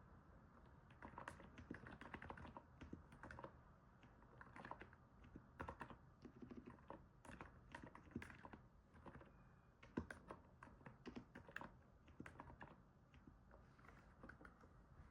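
Faint typing on a NiZ 68 Pro electrostatic capacitive keyboard: soft keystrokes in irregular runs with short pauses, a sound likened to stepping on snow.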